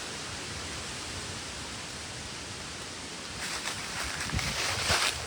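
Strong wind blowing as a steady hiss, then gusting louder with rustling and crackling from about three and a half seconds in.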